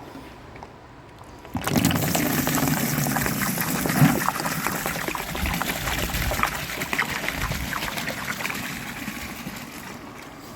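CLR rust remover pouring out of a 1973 Honda CL350's steel fuel tank, draining after a 50-hour soak. The pour starts suddenly about a second and a half in and thins out gradually toward the end.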